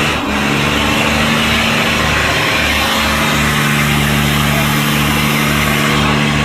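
Tractor engines running steadily and loudly, a low uneven pulsing under a dense rushing noise.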